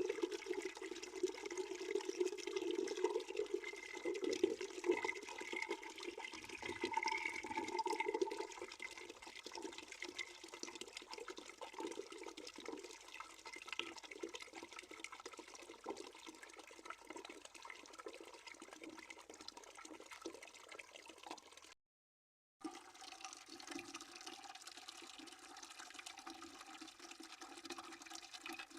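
A stream of water running into a bucket, a steady splashing with a hollow ringing tone from the bucket. It gets quieter about eight seconds in, and cuts out completely for under a second about three-quarters of the way through before carrying on.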